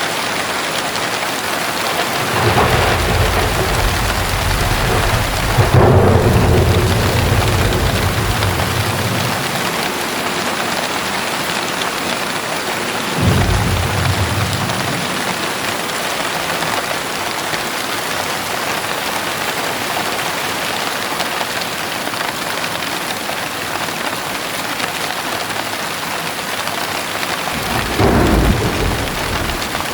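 Steady heavy rain with rolls of thunder. A long, low rumble starts about two seconds in and swells to its loudest around six seconds, a shorter rumble comes around thirteen seconds, and another comes near the end.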